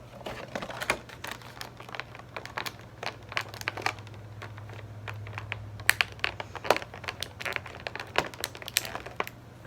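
Plastic packaging insert crinkling and clicking in irregular bursts as a Funko Pop figure is worked out of its box.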